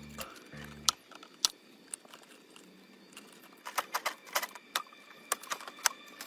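Background music stops about a second in. After it come irregular sharp clicks and taps, a few at first, then a quicker cluster in the second half.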